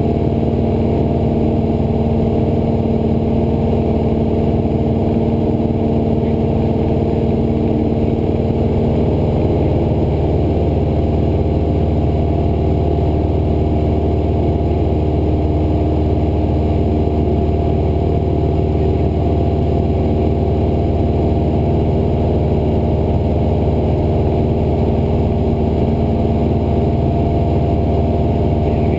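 Cessna 172's piston engine and propeller running at a steady, unchanging drone in flight.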